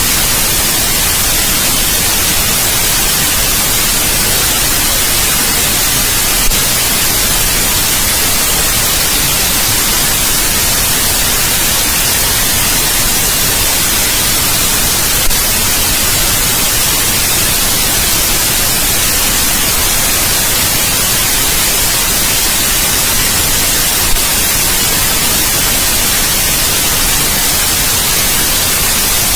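Steady white noise, an even hiss brightest in the treble. A brief click comes three times, about nine seconds apart.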